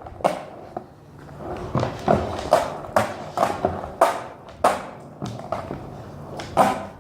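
Skateboard with very loose trucks rolling, with a string of sharp clacks and knocks from the board and trucks.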